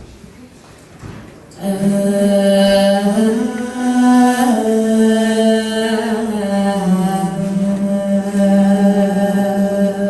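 A single voice singing long, held notes without words, beginning about a second and a half in; the pitch steps up briefly near the middle and settles back down.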